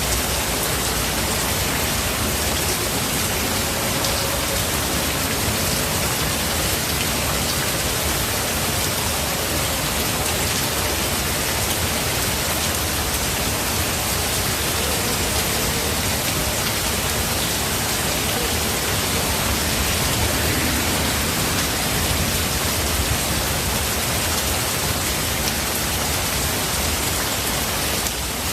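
Steady rain falling in a forest, an even, unbroken hiss with no thunder.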